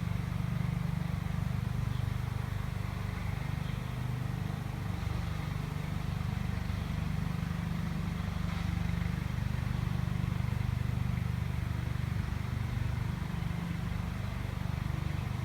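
Swarm of honey bees buzzing in a steady, low drone as they fly around and settle into a swarm trap box.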